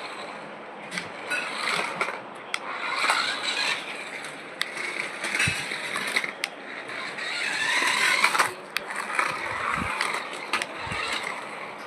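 A toy car runs with its newly fitted replacement gear. It rolls and whirs across a hard floor, rising and falling, with many small clicks and rattles from the plastic gears and wheels.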